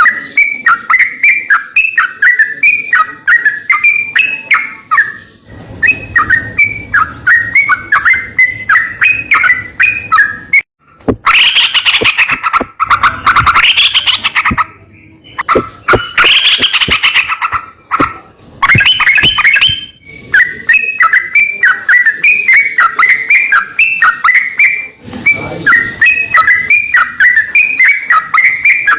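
Crocokan songbird singing nonstop: a fast run of sharp repeated chirps, about three a second, broken in the middle by louder, harsher, scratchy phrases.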